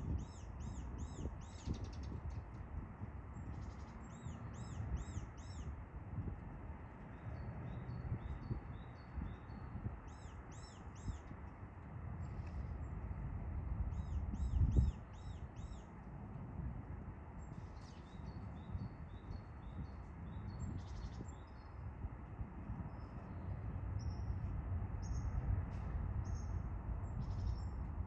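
A small songbird singing, repeating short phrases of three or four quick high notes every couple of seconds, over a steady low rumble.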